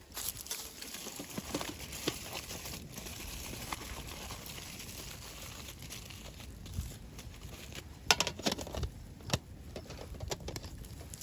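Aluminium foil being crinkled and folded by hand, a steady rustle with a few sharp crackles near the end, as it is closed up around seasoned salmon.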